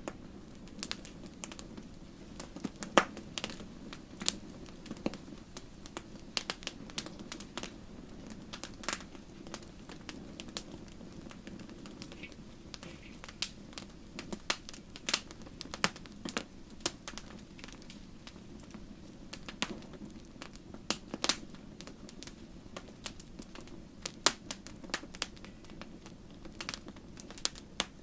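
Wood campfire burning and crackling: irregular sharp pops and snaps, several a second, over a steady low rumble of the flames.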